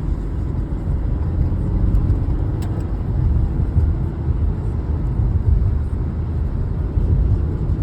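Car driving on a wet road in rain, a steady low rumble of engine and tyres heard from inside the car.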